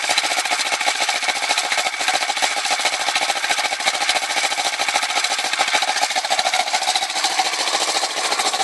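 Kawasaki Ninja 650R's parallel-twin engine idling steadily just after a cold start through an Arrow slip-on exhaust, with a rattle from the exhaust, which is held on by only one bolt.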